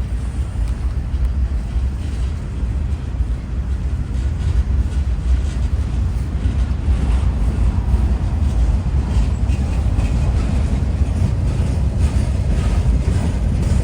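Indiana and Ohio Railway freight train rolling past, a steady low rumble with clicking of wheels over the rails that picks up in the second half.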